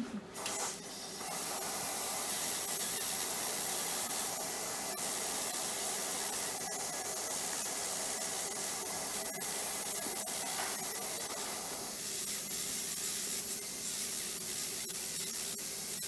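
Dental slow-speed handpiece running with a finishing disc, trimming excess composite at the margin of a class 2 composite restoration: a steady hiss that starts about a second in and thins slightly about twelve seconds in.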